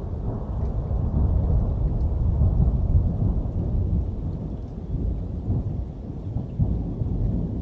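Rolling thunder rumbling low over rain, swelling over the first couple of seconds, easing off in the middle and swelling again near the end.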